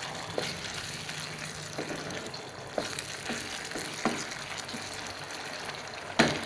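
Squid rings, crab sticks and sausage sizzling in a pan of thick sauce, stirred with a wooden spatula that knocks and scrapes against the pan every second or so, with one louder knock near the end.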